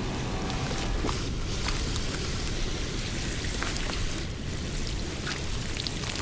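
Running water with scattered sharp splashes and drips.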